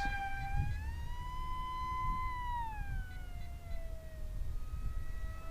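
Radiolink SU27 micro park jet's brushless motor and propeller whining in flight. The pitch rises about a second in, holds, then slides down over the next few seconds and starts to climb again near the end.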